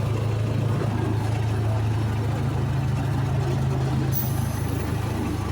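Zoo ride train's engine running with a steady low hum as the train rolls along. A faint high hiss joins about four seconds in.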